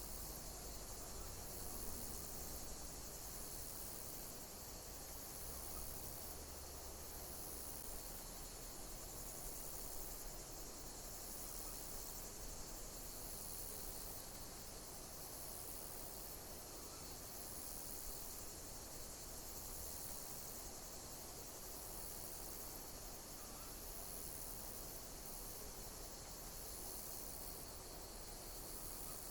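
Chorus of chirping insects: a steady high-pitched trill with short high chirps repeating about once a second.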